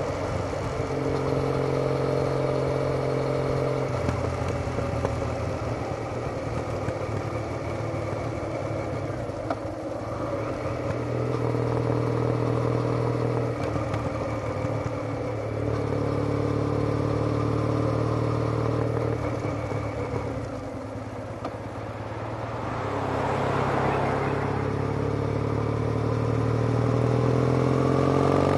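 Triumph Bonneville parallel-twin engine through a TOGA aftermarket silencer, heard from the bike while riding. The exhaust note holds steady for stretches of a few seconds and shifts in pitch between them, eases off briefly about two-thirds through, then rises in pitch as the bike accelerates near the end.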